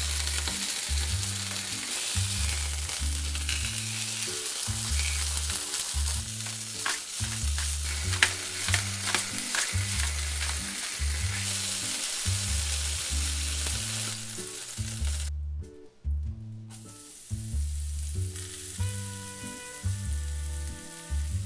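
Boneless chicken thigh sizzling as it fries in a nonstick pan, a steady hiss with a few sharp pops around the middle. About 15 s in it cuts off, and a quieter sizzle follows as chopped scallions are stirred in the rendered chicken fat to make scallion oil. Background music with a steady bass line plays throughout.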